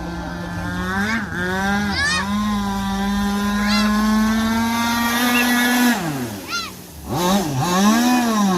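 Zenoah 26cc two-stroke petrol engine of an RC V-hull boat running at steady high revs, with quick throttle dips about one and two seconds in. About six seconds in the revs fall away sharply toward idle, then it is blipped back up in quick bursts near the end.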